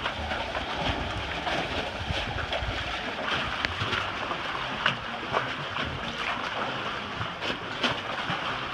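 Water sloshing and splashing around a swamped boat, with scattered knocks and a steady wash of wind on the microphone.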